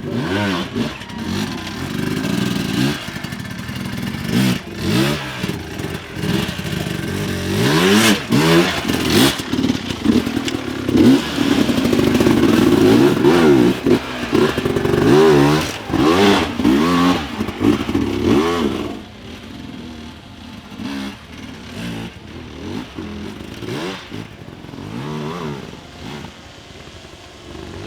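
Off-road dirt bike engine revving up and down in quick repeated bursts, loud through the middle, then fainter for the last third.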